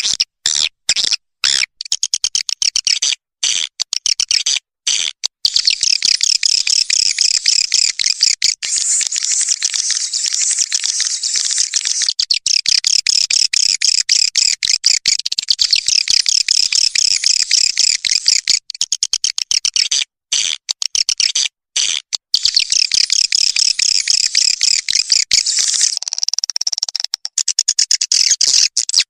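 Swiftlet lure call: a recorded swiftlet colony's rapid, high twittering chatter, played to attract swiftlets to nest. It is dense and continuous, broken by a few abrupt short silences in the first few seconds.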